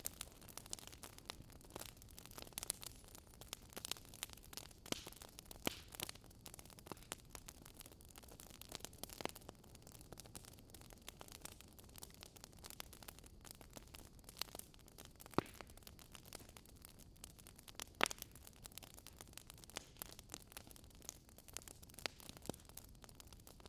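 Campfire burning wood, crackling with irregular small pops and a couple of sharper snaps, about 15 and 18 seconds in, over a faint steady rush of a flowing river.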